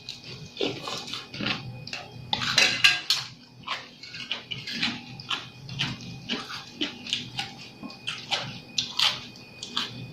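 Close-miked eating of seafood papaya salad: wet chewing, lip-smacking and slurping in quick, irregular succession.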